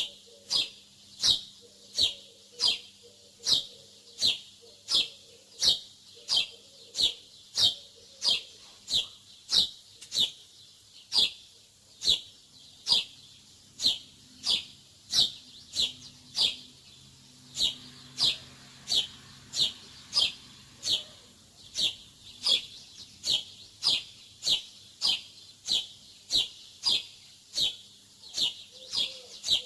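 A small bird chirping over and over: short high chirps that each drop in pitch, repeated evenly about three times every two seconds.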